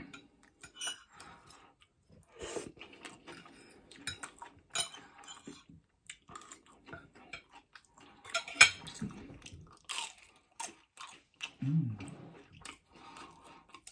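Close-miked chewing and eating of Chinese takeaway food, with scattered clicks and clinks of a knife and fork against the plate between mouthfuls. A brief low hum from the eater comes near the end.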